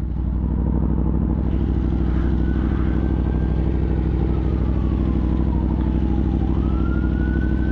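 Aprilia Tuono V4 motorcycle's V4 engine idling steadily in neutral. A faint siren wails in the distance, falling in pitch and then rising again near the end.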